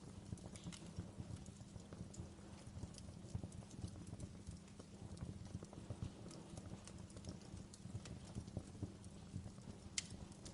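Wood fire in a fireplace crackling: a steady low rumble of burning with frequent small pops and one sharper snap near the end.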